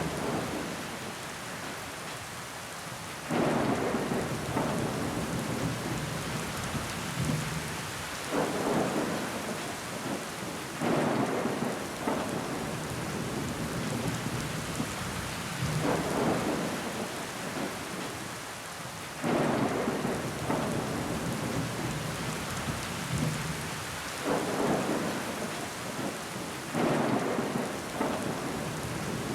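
Steady rain on a window pane, with water running down the glass. About seven louder swells break in every few seconds, each starting suddenly and fading over a second or two.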